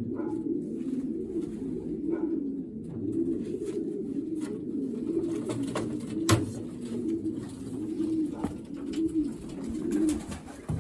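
Racing pigeons cooing, overlapping low rolling coos that go on without a break, with one sharp click a little past the middle.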